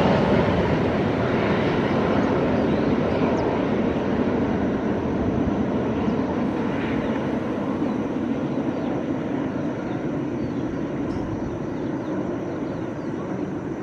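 Jet engine noise of a Boeing 737-800's CFM56 turbofans during its landing, a steady rumble that slowly fades away.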